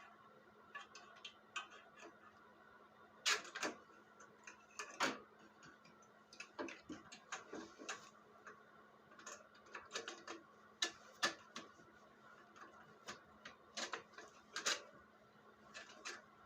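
Irregular sharp clicks and light knocks of hand tools and small parts being handled during repair work, spaced unevenly with a few louder ones, over a faint steady hum.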